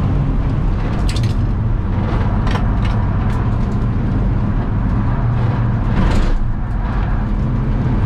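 BMW E46 track car's engine running hard at speed, heard from inside the cabin, a steady drone over tyre and road noise, with a few short clicks and knocks from the cabin.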